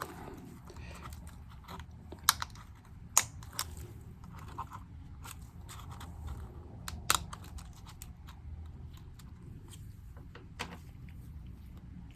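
Sharp plastic clicks and small snaps of MacBook keycaps being worked loose and pried off the keyboard, spread irregularly with the loudest about seven seconds in. A low steady hum runs underneath.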